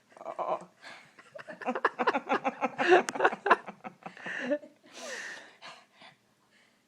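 A woman's voice laughing and chuckling in quick pulses, with snorts and breathy exhales, trailing off near the end.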